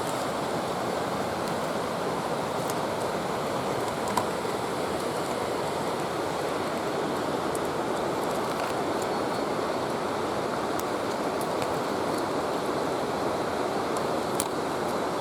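Steady rushing noise outdoors, with a few faint clicks scattered through it.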